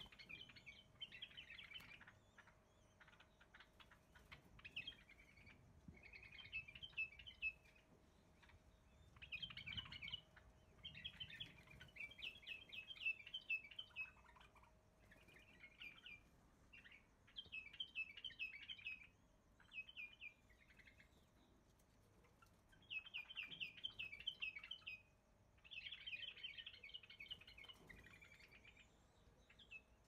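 Small birds chirping in repeated short chattering bouts, each about a second long, coming and going throughout.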